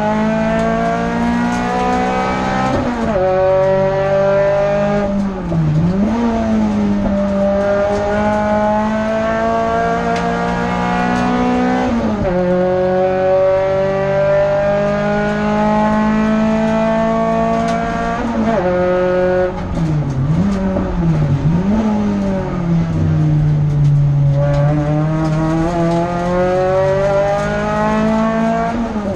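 Renault Clio F2000 hillclimb car's engine heard from inside the cabin, pulling hard up through the gears. The pitch climbs and drops sharply at each upshift, about three, twelve and eighteen seconds in, with several short dips where the throttle is lifted briefly and then reopened.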